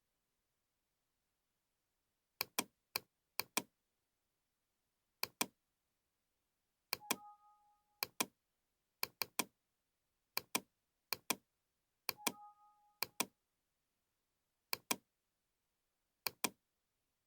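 Computer mouse clicks, mostly in quick pairs like double-clicks, with silence between them. Twice a short two-note computer alert tone sounds together with a click.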